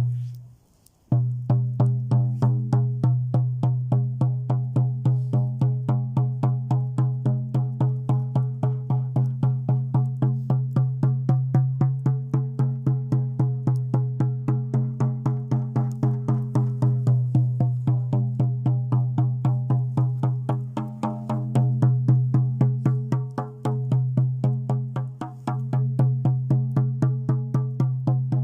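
Shaman's frame drum (buben) beaten in a steady, fast rhythm of about four strokes a second, each stroke ringing with a deep low tone. A single strike comes first, and the steady drumming starts about a second in.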